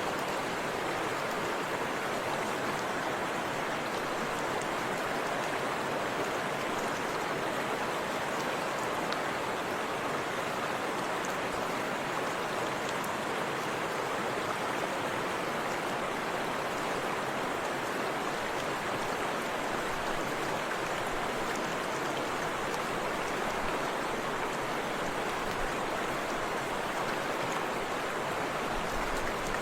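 Forest river and small waterfall flowing, a steady rush of water.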